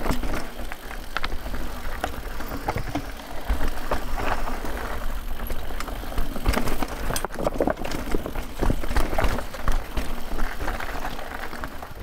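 Guerrilla Gravity The Smash mountain bike ridden over rough trail: tyres rolling on dirt with irregular knocks and rattles from roots and rocks, over a steady rumble of wind on the microphone.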